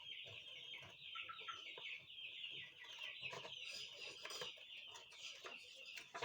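Chickens clucking faintly and continuously, with a few short clicks.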